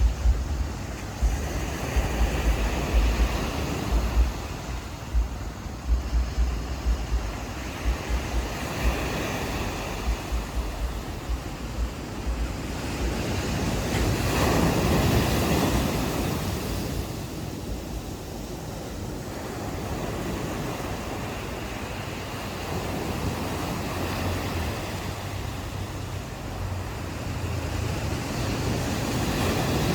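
Ocean waves washing onto a beach, with a wave surging loudest around the middle and smaller swells after it. Wind buffets the microphone with low rumbling gusts through the first third.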